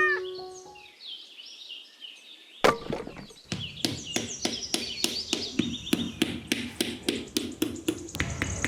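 Small hammer tapping on wood, about three even strikes a second, starting a little past halfway after a single sharp knock, with birds chirping behind.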